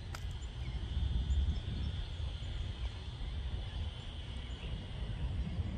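Steady chorus of frogs calling at dusk, a continuous high trill with a few separate chirps, over a low rumble.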